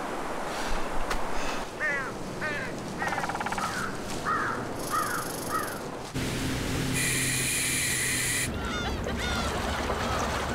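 Birds calling in a run of short hooked calls over a steady rushing hiss, with steady sustained tones joining about six seconds in.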